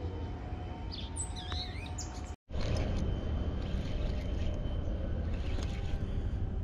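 Birds chirping, a few short calls about a second in, over a steady low outdoor rumble. The sound drops out for an instant just before halfway.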